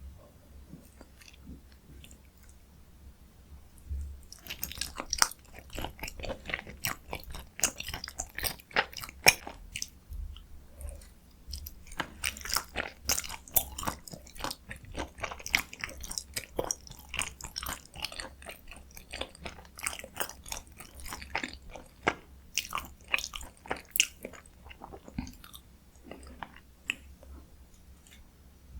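Close-miked chewing of dakgalbi, spicy stir-fried chicken: rapid wet mouth clicks and smacks with some crunchy bites. It starts a few seconds in, pauses briefly near the middle and thins out near the end.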